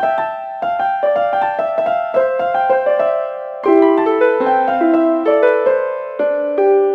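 Piano music: a flowing line of single notes and chords, several a second, moving to a lower register about four seconds in.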